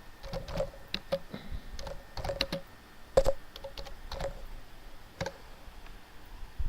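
Typing on a computer keyboard: a run of irregular key presses, the loudest a little past three seconds in.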